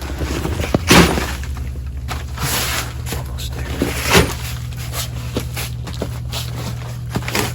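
A person crawling on knee pads through a crawl space: scraping and shuffling with scattered knocks, the sharpest about a second in and about four seconds in, over a steady low hum.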